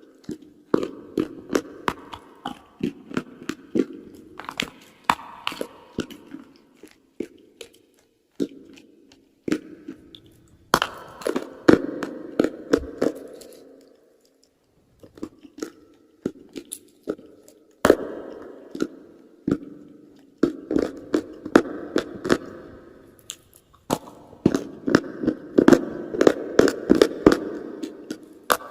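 Close-miked chewing and crunching of chalk and clay: runs of sharp crunches and crackles over a grinding sound, broken by a few short pauses, the longest about halfway through.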